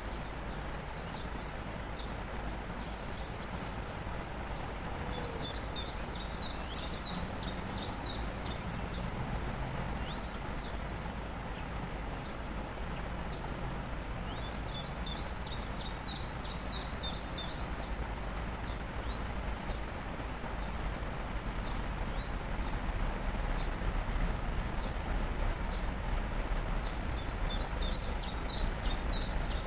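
Waterfall rushing steadily with a deep rumble, while a songbird sings a short phrase of rapid high notes three times, about every ten seconds. The water grows slightly louder in the last third.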